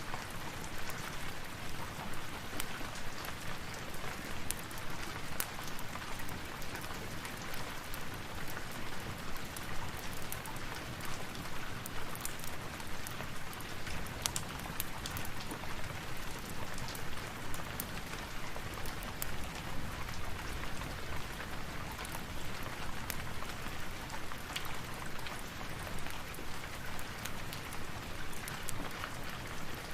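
Steady rain falling, with scattered sharp ticks and crackles throughout, and a little more low rumble from about halfway through.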